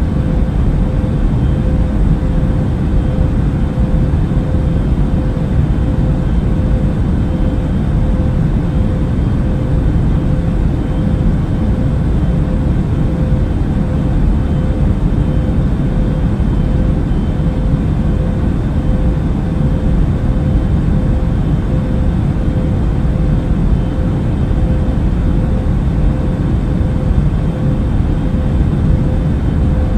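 Steady airplane cabin noise in flight: an even, low rumbling roar with a constant mid-pitched hum running through it.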